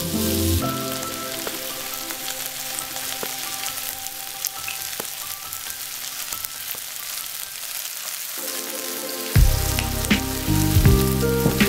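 Chicken, onion and curry paste sizzling steadily as they fry in a small nonstick pan, with a few light ticks. Background music with a deep beat comes in louder near the end.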